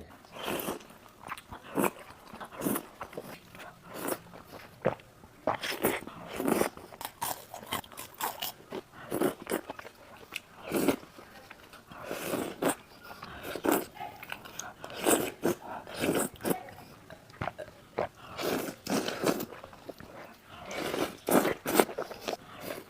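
A person biting into and chewing spiced whole roast chicken, with crunchy bites and chewing in irregular bursts about every second or so.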